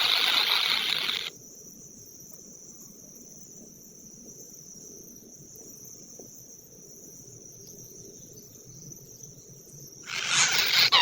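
Insects buzzing in a dense, steady chorus that cuts off abruptly about a second in, leaving a faint, steady high-pitched insect drone. The loud chorus returns abruptly near the end.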